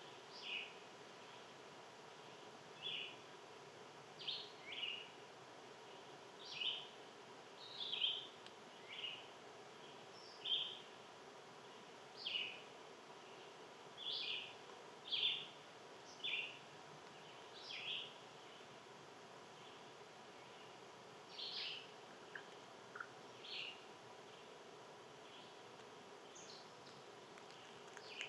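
A bird giving short, high, down-slurred call notes again and again, about one every second or two at uneven gaps, over a faint steady hum.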